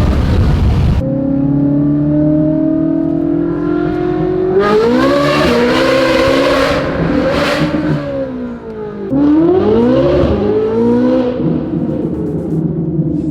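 Ferrari 458's V8, fitted with free-flow headers, bypass pipes and a titanium exhaust, heard from inside the cabin as it accelerates. A rushing noise fills the first second and cuts off. The revs then climb slowly, rise in quicker surges from about four and a half seconds in, dip near nine seconds and climb again before easing off near the end.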